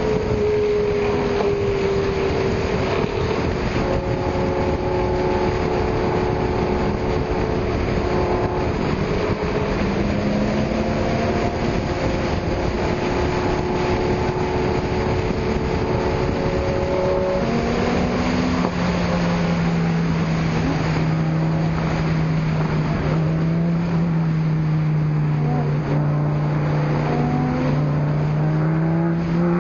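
Sports car engines and exhausts running at low, steady speed, more than one engine note at once. About two-thirds of the way through, a deeper engine note comes in and holds.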